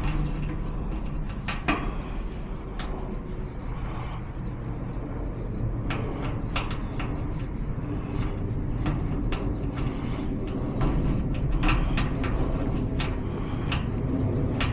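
Irregular small metal clicks and scrapes of lock-picking tools working inside a tight-keywayed garage door lock cylinder, over a steady low rumble.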